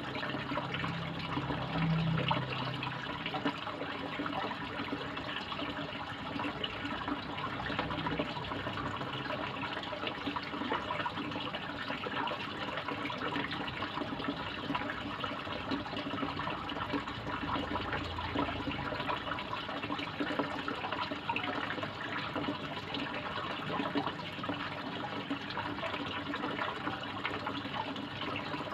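Koi pond water splashing and trickling, a steady flow with no let-up.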